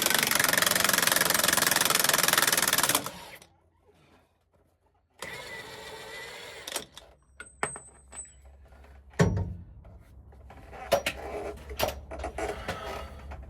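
A 1-inch-drive impact gun hammering loudly as it spins off the pinion nut, cutting off suddenly about three seconds in. Then a few quieter metal clicks and knocks, with one low thump about nine seconds in.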